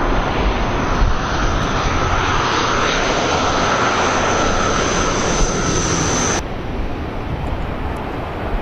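Antonov aircraft engines running loud and steady, with a faint high whine over the engine noise. About six seconds in, the sound drops abruptly to a duller, quieter engine noise.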